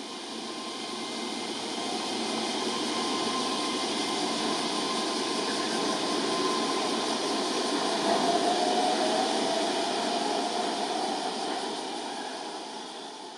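Electric commuter train running through the station: a steady rail and motor noise that builds to a peak about eight seconds in and then fades, with a faint whine near the peak.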